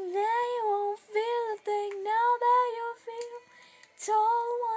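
A girl singing wordless held notes, with no accompaniment. The voice drops out for about a second just after the middle and then comes back.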